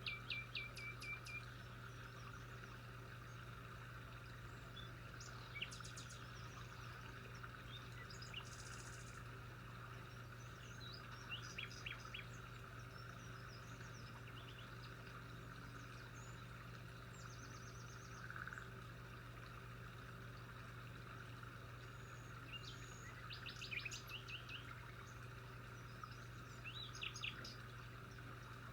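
Wild birds chirping on and off: short runs of quick, high chirps every several seconds and a brief buzzy trill, over a faint steady hum.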